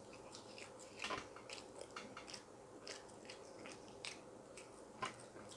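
Faint chewing of a mouthful of French fries drizzled with hazelnut chocolate sauce: irregular soft clicks of the mouth, a little stronger about a second in and near the end.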